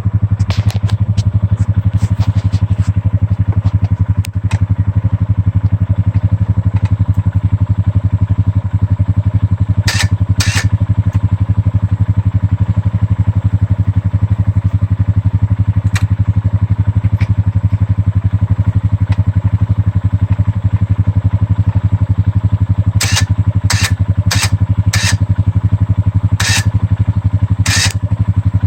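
ATV engine idling steadily, the Honda Rancher running while its winch pulls on the bent Polaris frame. A couple of short sharp snaps come about ten seconds in, and several more in quick succession near the end.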